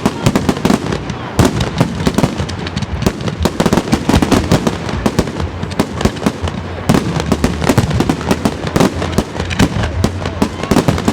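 Fireworks display's closing barrage: a dense, unbroken run of shell bursts and crackling, many bangs a second.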